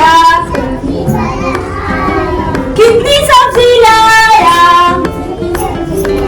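Young playgroup children singing a nursery rhyme together, with held notes and a sing-song melody.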